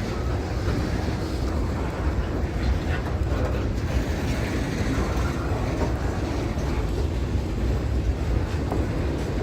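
A train passing close by, its wheels rumbling steadily on the rails.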